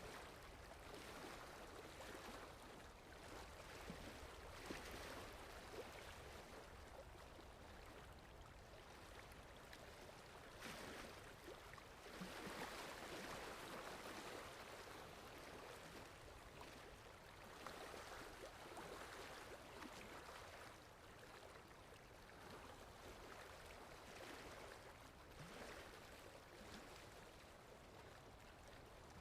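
Faint sea waves washing in and out: a soft rushing that swells and fades every few seconds, fullest about halfway through.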